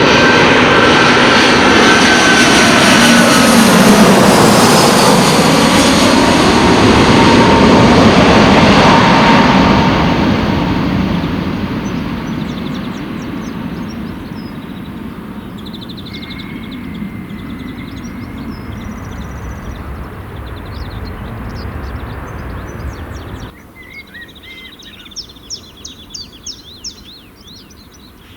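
Airbus A320-214 jet airliner with CFM56 engines passing close on its landing approach: loud engine noise with a whine that falls in pitch as it goes by, then slowly fading away. Near the end the jet noise drops out suddenly, leaving birds chirping.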